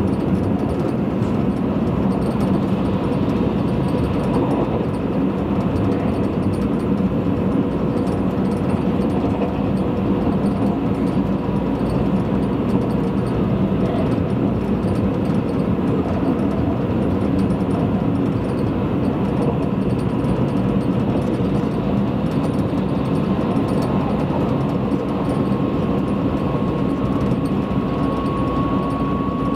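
Tobu Spacia limited express train running at speed, heard inside the passenger cabin: a steady rumble of wheels on rail and running noise, with a faint high tone that rises slightly in pitch near the end.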